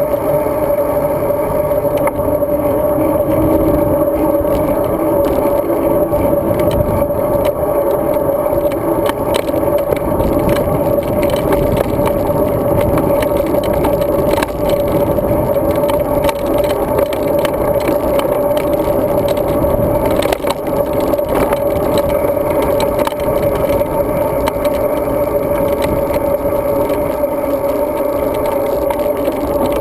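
Road bike riding noise picked up by a bike- or body-mounted GoPro: steady tyre and wind rumble with a constant hum, and frequent small rattles and clicks from the bike and mount.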